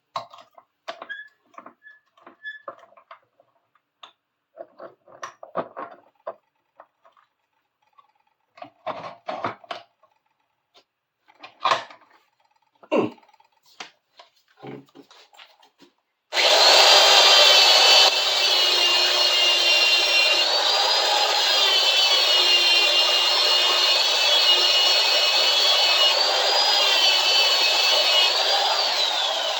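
Light clicks and knocks of handling metal, then a handheld power tool starts abruptly about halfway through and runs steadily with a high whine while cleaning dirt and glue off a steel bar clamp's flat surface. It winds down near the end, its pitch falling.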